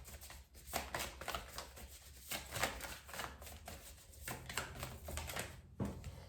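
Tarot cards being shuffled and handled: a run of quick, irregular card flicks and slaps.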